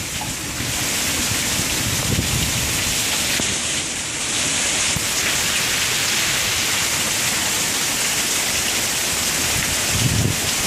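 Heavy rain pouring down in a severe thunderstorm, a steady loud hiss, with low wind buffeting on the microphone near the end.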